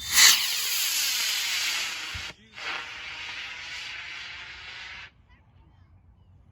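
Model rocket motor firing at liftoff: a loud rushing hiss that starts suddenly, breaks off briefly a little after two seconds, then carries on and cuts off about five seconds in as the motor burns out.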